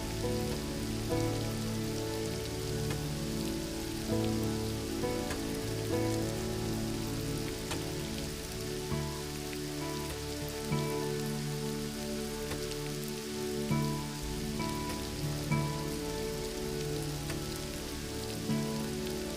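Steady rain hissing, with soft, slow background music of long held notes that change every second or two.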